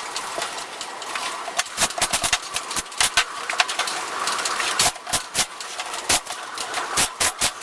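Carpentry work with a small power tool: a motor running steadily under many irregular sharp clicks and knocks of tools on wood.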